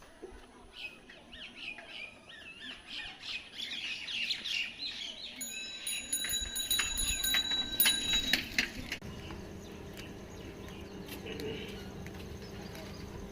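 Birds chirping and calling in quick, short notes. About nine seconds in the sound cuts off suddenly and is replaced by a steady low hum.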